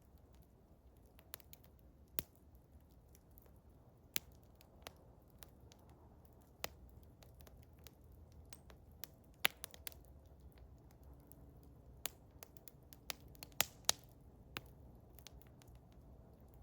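Eastern hemlock wood fire crackling: irregular sharp pops and snaps over a faint low rumble, with the loudest pops about halfway through and in a quick cluster a little later.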